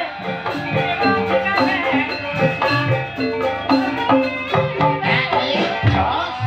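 Live ebeg dance accompaniment: instrumental music of mallet-struck tuned percussion over drums, a steady run of rhythmic note strikes.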